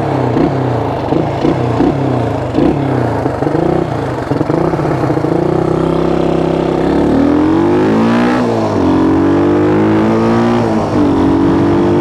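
1974 Honda XL175's single-cylinder four-stroke engine being ridden. It pulses unevenly at first, then revs up steadily from about five seconds in, drops sharply just past eight seconds and climbs again.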